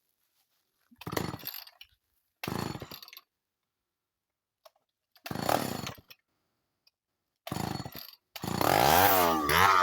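Chainsaw's two-stroke engine pull-started: four short sputters on separate pulls, then it catches about eight and a half seconds in and revs up and down.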